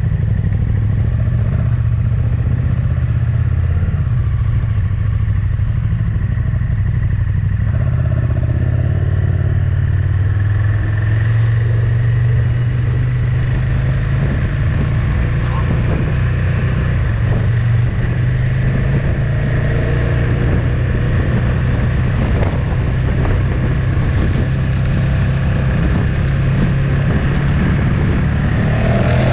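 Motorcycle engine running steadily while riding, its pitch shifting a little about ten seconds in.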